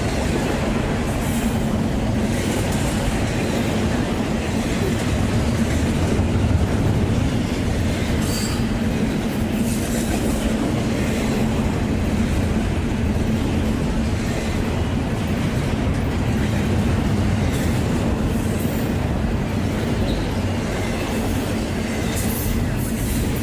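A train rolling past on the rails with a steady rumble and a constant low hum. Brief high squeaks come about eight seconds in and again near twenty seconds.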